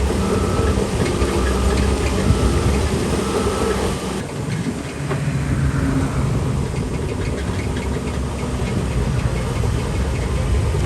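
Heavy diesel engine of earthmoving machinery running steadily, with faint repeated clicks over it. About four seconds in the sound changes abruptly: a brief dip in level, then the engine carries on at a different pitch.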